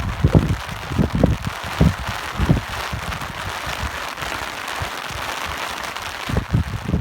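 Steady rain hiss with uneven gusts of wind rumbling low, several in the first half, easing through the middle and returning near the end.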